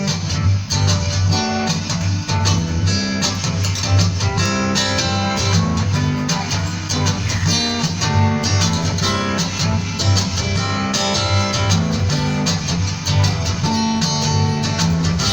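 Instrumental intro of an acoustic band song: acoustic guitar playing over a steady bass line.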